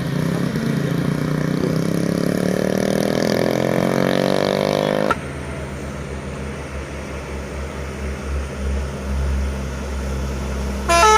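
Heavy diesel truck engine pulling uphill under load, its pitch rising steadily for about five seconds before cutting off abruptly to a lower, steady engine rumble. Just before the end a loud multi-tone musical horn starts playing a stepping melody.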